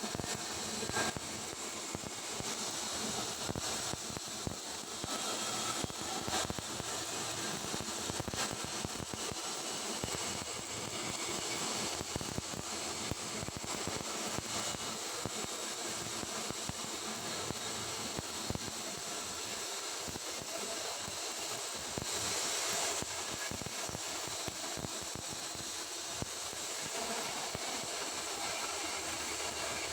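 Stick (SMAW) welding arc with a 3.2 mm electrode on carbon steel pipe, crackling and sputtering steadily as the bead is run.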